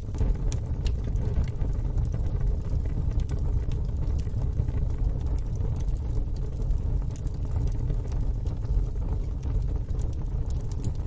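Wood fire in a fire pit crackling, with scattered sharp pops over a steady low rumble that steps up at the very start.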